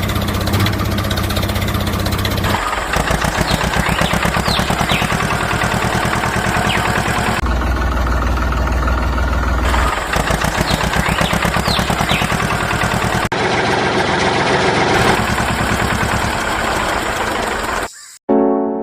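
An engine running with a rapid, even throb, cut into several short segments, with a few faint high squeaks. Piano music begins at the very end.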